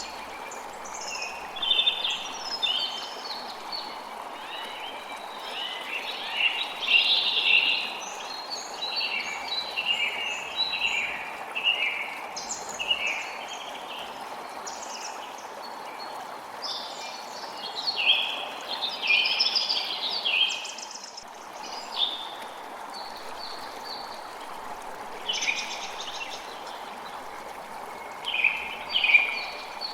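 A creek flowing steadily, with songbirds chirping and calling over it.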